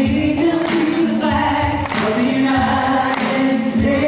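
A choir singing a patriotic song in sustained, gliding notes with musical backing.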